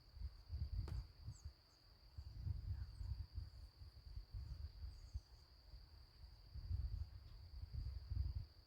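Insects, most likely crickets, chorusing as a steady high-pitched drone. Low rumbling on the microphone comes and goes underneath.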